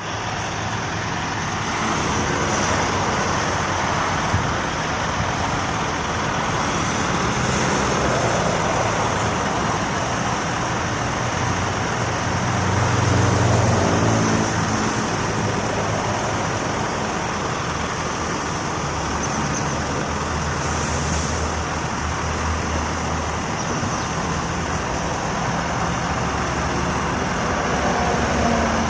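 Scania R450 heavy truck driving: steady engine rumble mixed with road and tyre noise, swelling briefly about halfway through.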